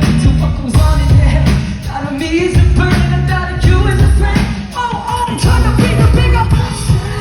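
Live pop-rock concert with a male singer's voice over a full band: drums, bass and instruments, heard loud through a phone recording in the venue.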